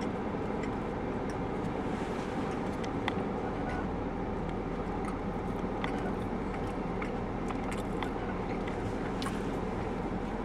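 Steady background hum with faint, scattered clicks of someone chewing a mouthful of chicken sandwich.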